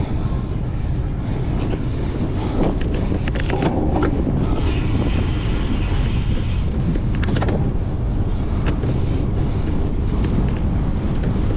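Wind buffeting the microphone of a camera on a cyclocross bike ridden at race pace, over a steady rumble of tyres and frame rattle with scattered sharp clicks. A higher hiss joins in for about two seconds near the middle.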